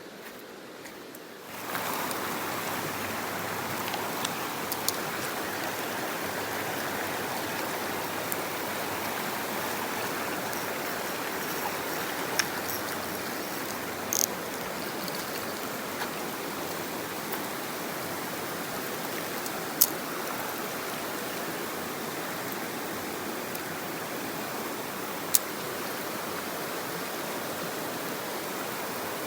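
Mountain stream rushing steadily over rocks, starting suddenly about a second and a half in. A few sharp clicks stand out over the water now and then.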